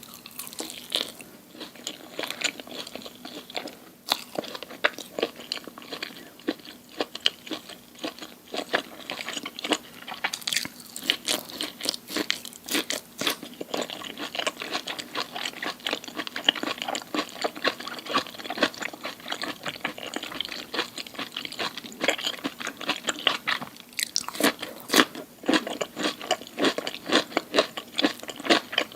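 Close-miked chewing and crunching of crisp food, a dense run of sharp crackly bites and mastication, with louder bursts of crunching about a third of the way in and again near the end.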